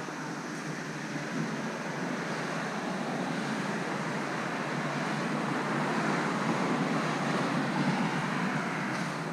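Steady rushing noise of road traffic, swelling gradually as vehicles go by.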